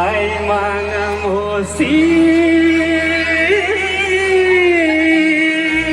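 Live singing over amplified backing music through a loud PA system: a few short sung phrases, then one long held note. The low bass under it drops out near the end.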